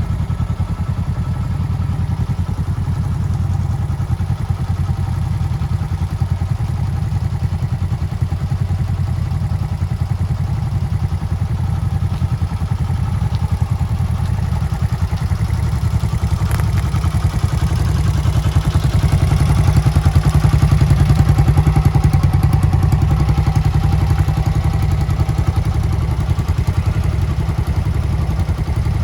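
Motorcycle engine running at idle with a fast, even beat. It swells a little louder for a few seconds about two-thirds of the way in, then settles back.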